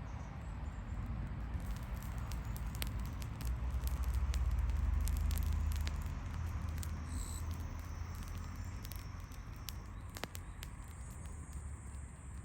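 Small wood fire crackling with scattered sharp pops, under a low wind rumble on the microphone that swells in the middle.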